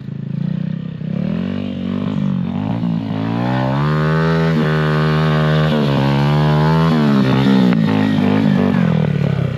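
Dirt bike engine revving up, holding a steady high pitch for a few seconds, then dropping back.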